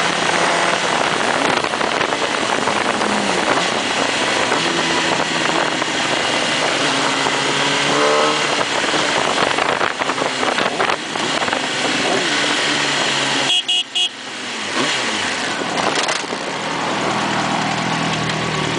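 Motorcycle engine running under heavy wind rush, its pitch rising as it revs up about halfway through and falling again a little later. A short horn toot sounds about two-thirds of the way in.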